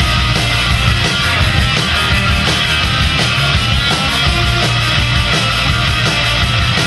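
Rock band playing an instrumental passage with distorted electric guitar, bass and drum kit at a driving, steady beat.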